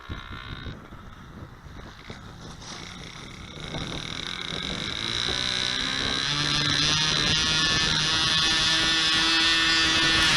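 Evolution gas engine of a radio-controlled stick plane running in flight, faint at first and growing louder from about four seconds in, then holding a steady note.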